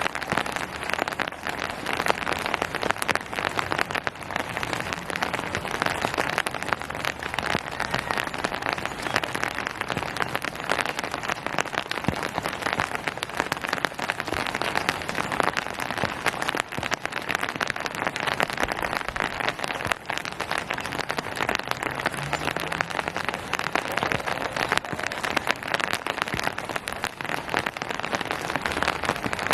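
Steady rain falling on hard surfaces, a dense, even patter of many drops.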